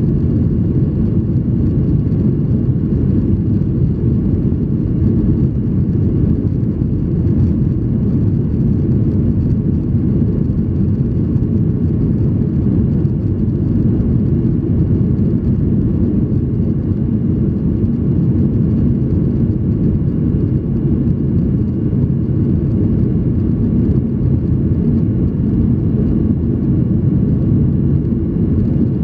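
Steady cabin noise inside a Boeing 737-800 in flight: a loud, even low rumble of engine and airflow noise from its CFM56-7B turbofans, with faint steady tones above it.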